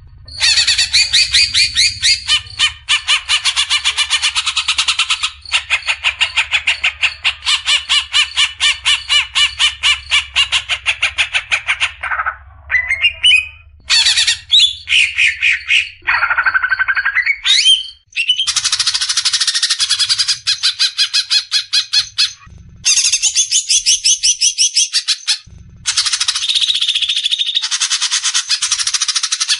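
Cucak ijo (green leafbird) singing its fast 'besetan' song: long runs of rapid, repeated chattering notes, broken by a few short gliding whistles and brief pauses about midway through.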